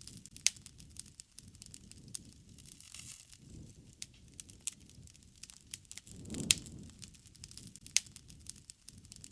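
Campfire crackling: irregular sharp pops and snaps of burning wood over a low rumble of flames that swells up about six and a half seconds in, with a loud pop just after.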